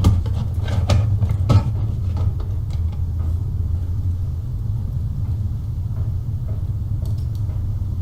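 A steady low rumble, with a few sharp knocks in the first two seconds.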